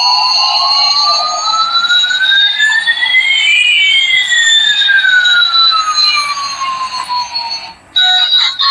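Electronic sound effect of two clean tones sliding slowly in opposite directions, one rising and one falling, crossing near the middle like a drawn-out siren sweep, then cutting off suddenly near the end.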